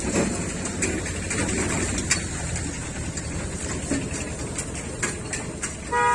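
Busy street and traffic background noise with scattered sharp knocks and a short vehicle horn toot near the end.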